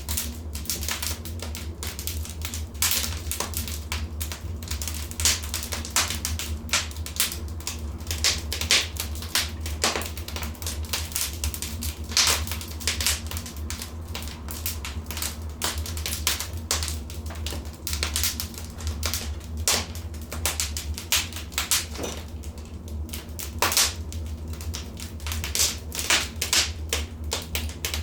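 Wood fire crackling in a fireplace: a steady run of irregular sharp pops and snaps, some louder than others, over a low steady rumble.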